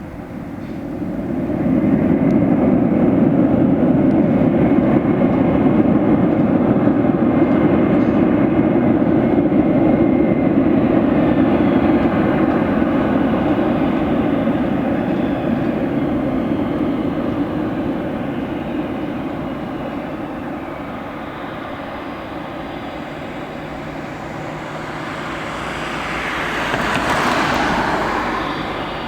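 Boeing 767 jet engines during landing: a loud, steady jet noise builds about a second in and holds for roughly ten seconds, then slowly fades. Near the end a second, hissier swell rises and falls away.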